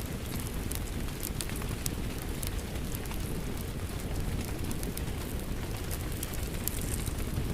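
Steady rain with a wood fire crackling in a fireplace: an even low rumble of rain under scattered sharp pops and snaps of burning wood.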